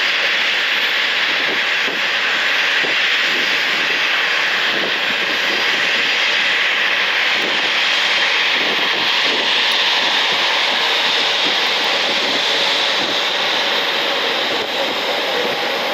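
Twin turbofan engines of an Embraer E190 airliner at taxi power as it pulls in to the gate, a steady jet rush that holds even throughout.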